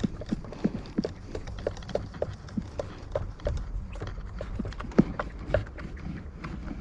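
A screwdriver driving a screw into a two-stroke leaf blower's plastic housing: a string of light, irregular clicks and knocks, with two louder knocks about five seconds in.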